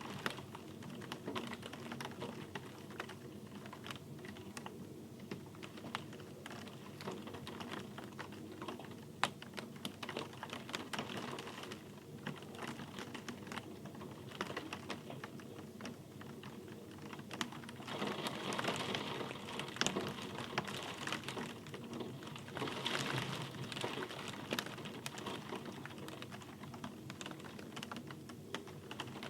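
Rain falling, with many separate drops clicking sharply over a soft steady hiss, growing denser and louder in two short spells past the middle.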